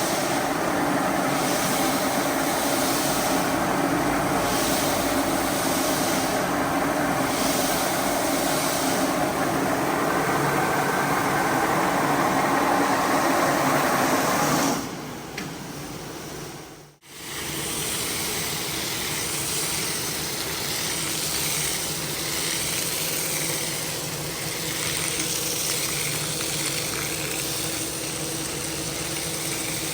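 Carpet-cleaning machinery running: a steady motor hum with a spraying hiss. It stops abruptly about 15 s in, and after a short gap a second, slightly quieter steady machine-and-water noise takes over.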